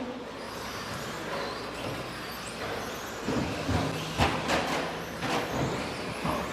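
Radio-controlled 2WD stadium trucks with 13.5-turn brushless electric motors running laps around a track, a steady whirring of motors and tyres, with a few sharp knocks about four to five seconds in.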